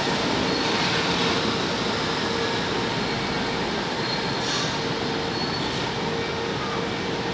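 São Paulo Metro Line 3 train at the platform: a steady rumble with a steady hum, easing slightly, and a short hiss about four and a half seconds in.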